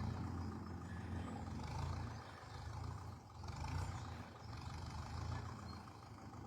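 Grey Ferguson ("Grey Fergie") tractor engine running steadily, its low note swelling and easing a little, with a short dip about three seconds in.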